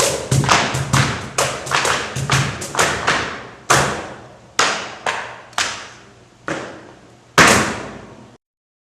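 Series of sharp percussive strikes, each ringing out briefly. They come quickly, several a second, for about three seconds, then slow and spread out. A last loud strike comes about seven seconds in, and then the sound cuts off abruptly.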